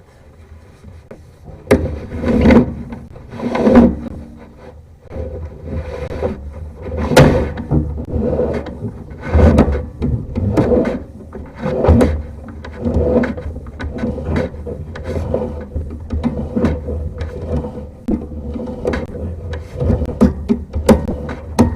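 Sewer camera push cable and reel scraping and knocking in an irregular, repeated rhythm, swelling about once a second, as the cable is worked through the plastic cleanout pipe.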